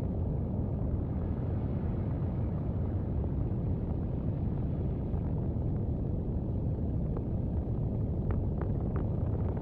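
Steady low rumble of aircraft engine noise, with a few faint short tones near the end. It cuts off abruptly.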